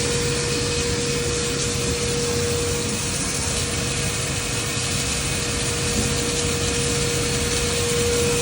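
Steady machine drone with a constant whine from a submerged arc welding setup running, with its flux vacuum and power source going.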